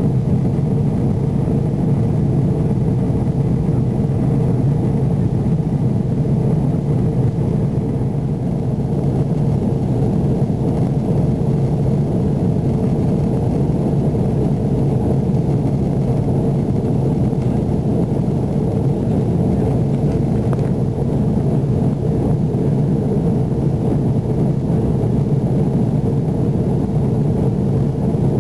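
Airbus A330 cabin noise in flight: a steady, loud rumble of the turbofan engines and airflow with an unchanging low drone, heard from inside the passenger cabin.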